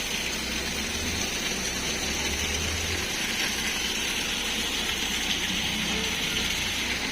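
Heavy rain falling with a steady hiss, with a low hum underneath for the first three seconds.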